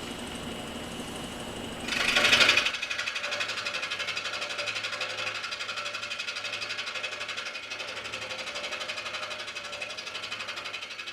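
Scroll saw running and cutting through a thick oak block with a fresh blade: the reciprocating blade makes a fast, even, rhythmic chatter. There is a brief loud burst about two seconds in, before the steady cutting.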